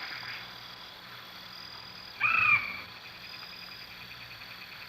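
Wild animal ambience: a faint steady high insect drone, with one short pitched animal call about two seconds in.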